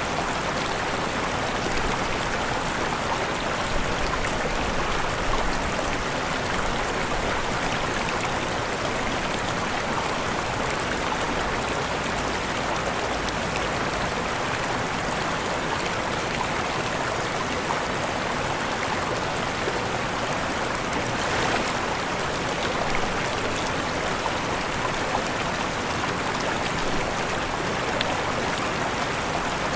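Waterfall: steady rushing, splashing water with no change in level.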